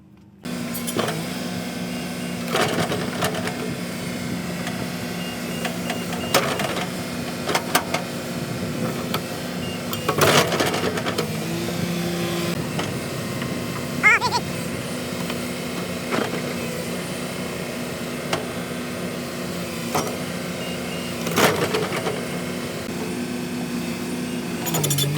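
An engine running steadily with a low, even hum, and a few sharp knocks and clanks at irregular intervals; about halfway through there is one brief rising squeak.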